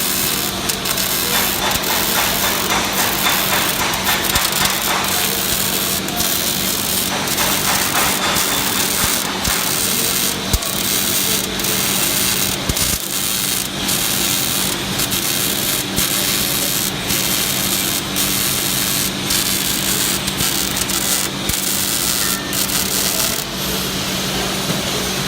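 MIG welding arc crackling steadily as a bead is run joining two pieces of metal, full of rapid sharp pops, over a steady hum. The crackle stops near the end.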